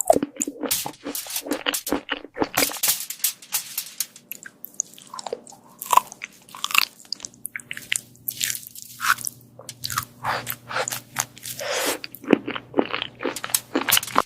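Cat chewing and crunching its food: a quick, irregular run of crisp bites and crunches.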